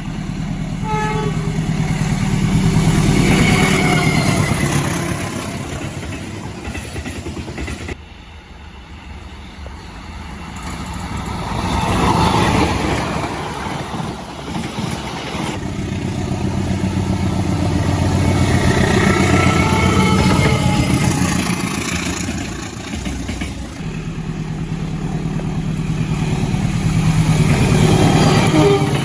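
Diesel-locomotive-hauled trains passing close by, one pass after another: a deep engine and wheel rumble that swells and fades, broken by two abrupt cuts between passes.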